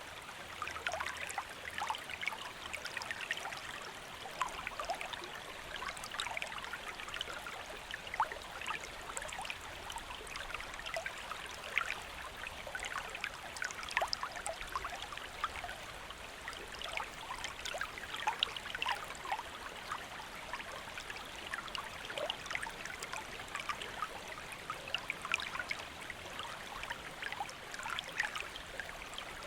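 Stream water flowing: a steady babbling rush dotted with many small trickles and splashes.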